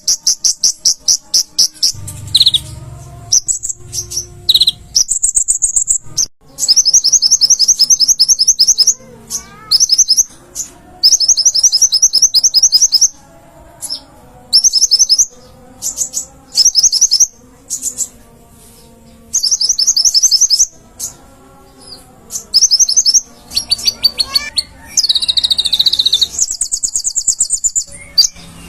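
Kolibri ninja (konin) sunbird singing: loud, rapid, high-pitched trills repeated in bursts of half a second to two seconds, with short pauses between them.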